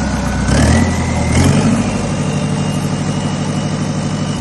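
Volvo Penta D4-180 four-cylinder marine diesel engine running, revved up in two quick steps about half a second and a second and a half in, then held at the higher speed, with a whine that climbs with the revs.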